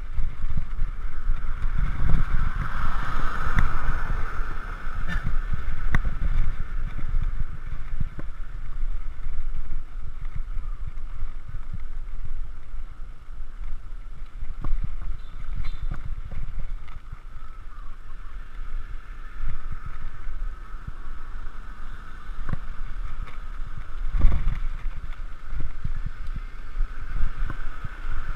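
Wind rushing over a GoPro's microphone while cycling, with a steady hum and frequent small knocks and rattles from the bicycle over the road surface.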